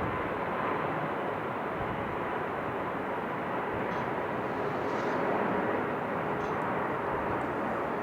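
Jet aircraft engine noise, a steady rushing sound with a faint steady whine running through it.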